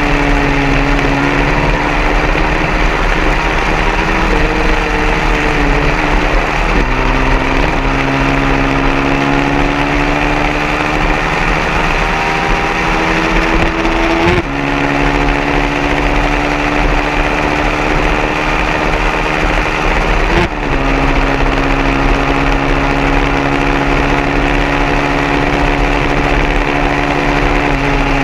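Racing 150cc motorcycle engine running hard and steady. Its pitch climbs slowly, then drops sharply three times, about every six to seven seconds, as it shifts gear.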